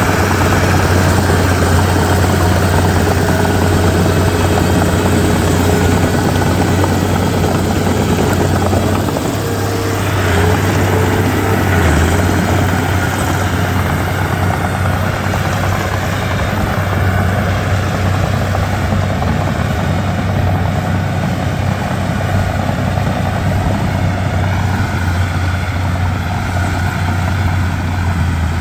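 Diesel engine of a Komatsu D31P crawler bulldozer running steadily at working revs while it pushes and spreads fill soil, a deep continuous drone.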